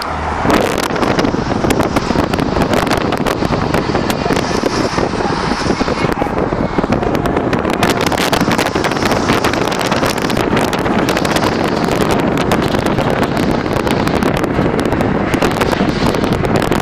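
Loud wind buffeting the microphone of a moving car, over road and engine noise. It jumps up suddenly about half a second in and stays dense and fluttering.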